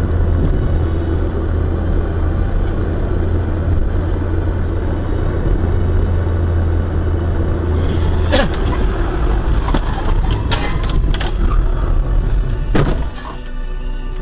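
Road vehicle running with a steady low drone, broken by sharp knocks and cracks about eight seconds in, a cluster of them a little later, and a last heavy one near the end, as in a collision with breaking parts.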